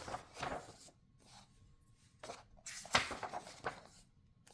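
Paper pages of a paperback coloring book being turned by hand, rustling and swishing several times, with the sharpest flick about three seconds in.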